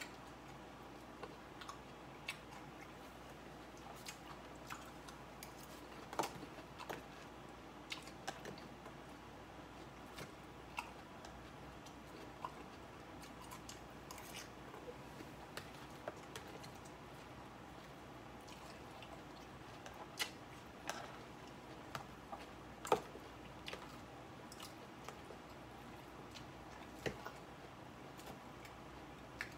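A person chewing salad close to the microphone: irregular small crunches and wet clicks from the mouth, a few of them louder, over a faint steady background noise.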